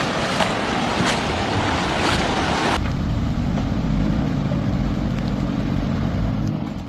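Loud rushing of floodwater with gusty wind noise on the microphone, cutting off abruptly about three seconds in to a lower, duller rumble with a faint steady hum.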